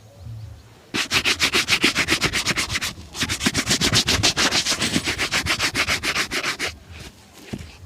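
A shoe being buffed by hand with rapid back-and-forth strokes, about nine a second, in two long runs with a short break between them.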